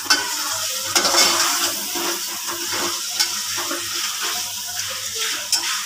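Chicken curry masala sizzling in an aluminium pot while being stirred and fried with a metal spoon, which scrapes and knocks against the pot a few times.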